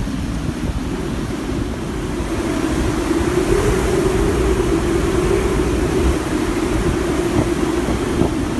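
Hurricane-force wind gusting against the microphone, with heavy buffeting and a low moaning tone that swells about three seconds in and holds for several seconds.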